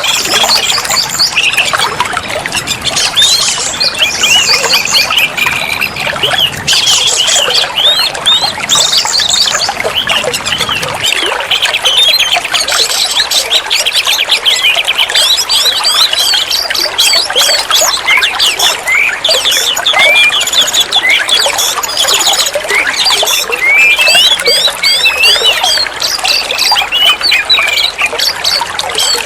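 Oriental magpie-robin (kacer) singing a long, unbroken song of rapid varied chirps, whistles and trills.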